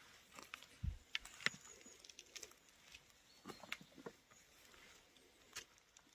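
Faint, scattered crackling and snapping of twigs and forest litter underfoot, with a dull thump about a second in.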